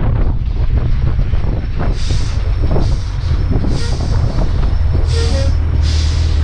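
Suzuki Bandit 650S inline-four engine running steadily under way on the highway, with several short bursts of hiss over it.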